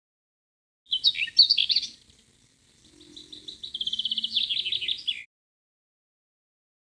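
Songbird singing: a burst of varied, quick-changing whistled notes about a second in, then a fast trill of repeated notes that cuts off abruptly, a separated phrase from a bird-call collection set against silence.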